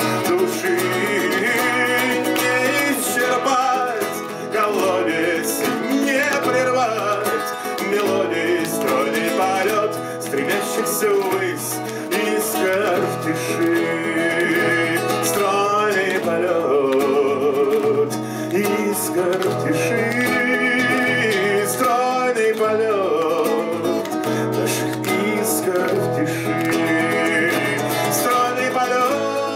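Live acoustic guitar music: an instrumental passage of the song, with a steady bass line and a wavering melody line above the guitar.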